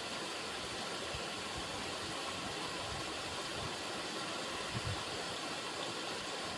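River water running: a steady rushing noise with no pauses, with a couple of soft low thumps about five seconds in.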